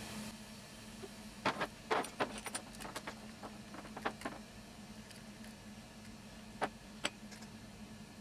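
Saw chain being fitted onto a Husqvarna 455 Rancher chainsaw's bar and sprocket: scattered light metallic clicks and clinks of the chain links, a cluster of them about two seconds in and a couple more near the end, over a faint steady hum.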